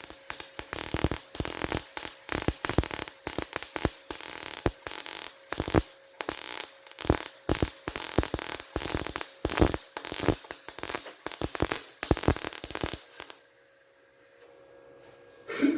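Electric welding arc crackling in a long, irregular run while bracing is welded onto a car frame; it stops about thirteen seconds in.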